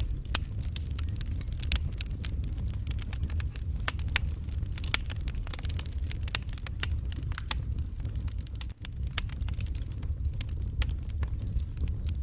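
Wood fire crackling: irregular sharp pops and snaps over a steady low rumble of the burning fire, with a momentary break about nine seconds in.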